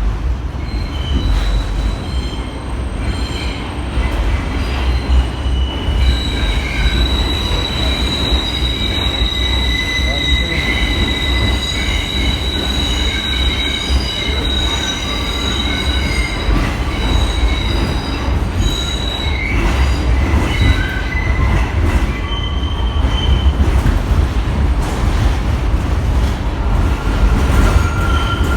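New York City subway train running on the rails: a steady low rumble with the wheels squealing in high, steady tones, loudest from about six seconds in until past the middle.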